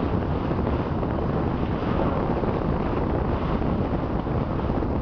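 Wind buffeting the microphone on the bow of a sailing ship under way, with a steady rush of water and sea underneath.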